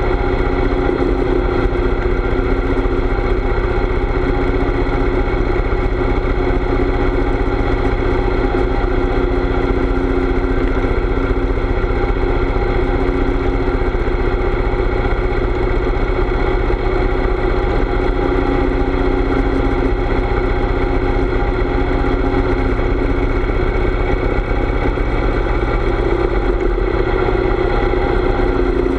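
Harley-Davidson V-twin motorcycle engine running steadily while riding, with a heavy low rumble of wind buffeting the microphone. The engine note shifts slightly near the end.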